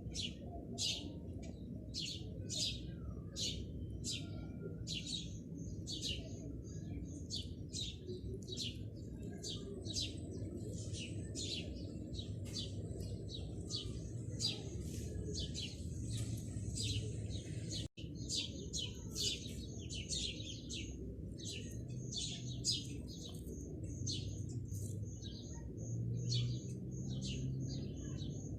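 Small birds chirping in quick repeated chirps, about two a second, over a steady low rumbling background. The sound cuts out for an instant about midway.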